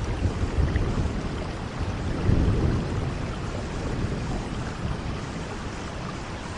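Steady rain hiss with a low rumble of thunder underneath, which swells about two seconds in and then dies down.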